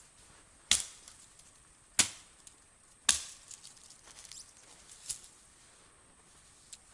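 Three sharp cracking knocks about a second apart, then a fainter one a couple of seconds later.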